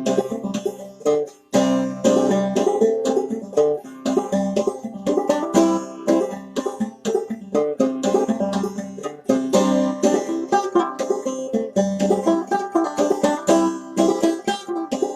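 Clawhammer banjo playing a traditional old-time tune, a fast, steady stream of plucked notes.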